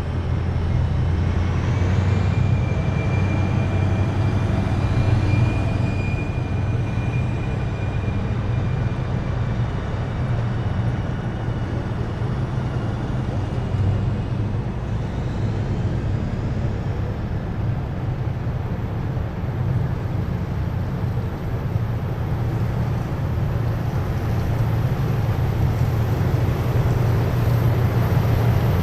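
Column of heavy military vehicles driving past on a city street: a steady, loud, low engine rumble, with a faint high whine in the first several seconds.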